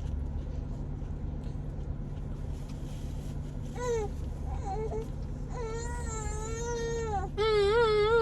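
Baby crying: short wails from about four seconds in, then a long drawn-out cry and a louder, wavering cry near the end, over a steady low hum.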